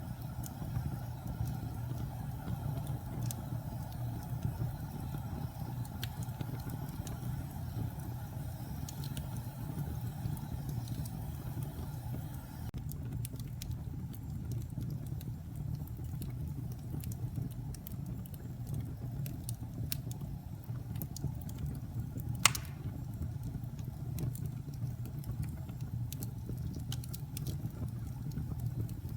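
Wood fire burning in a fireplace: a steady low rumble of flame with scattered small crackles, and one sharp, loud pop about three quarters of the way through.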